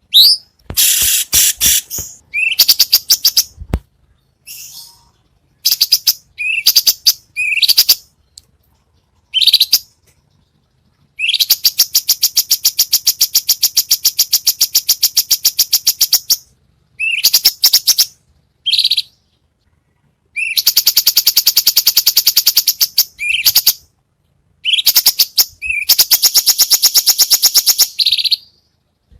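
Songbird singing in high, fast phrases: short upward-sweeping notes and quick trills, with two long, very rapid rolling trills of several seconds each in the second half. It is a masteran tutor song of the kind used to teach caged songbirds to sing.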